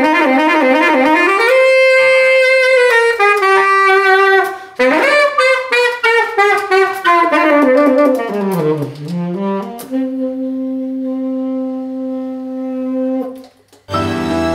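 Saxophone playing a slow jazz melody with vibrato. The line slides down to a low note and back up, then ends on one long held note that stops a few seconds before the end. A different piece of music starts right after.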